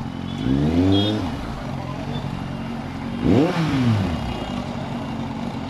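Superbike engine running steadily, its revs rising and falling twice: a brief swell about half a second in and a sharper rev about three seconds in.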